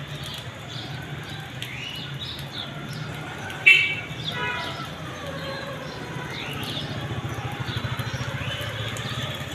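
Birds chirping in short rising calls every few seconds, with one louder call and a quick run of repeated notes about four seconds in, over a steady low background hum.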